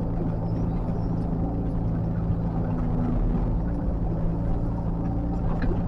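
Diesel engine of heavy earthmoving equipment running steadily at a constant speed, a low even hum.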